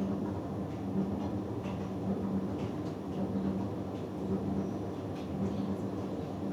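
Hoover Dynamic Next DXA610IW3 washing machine tumbling a load during its wash: a steady motor hum that swells and fades as the drum turns, with soft swishes of wet laundry.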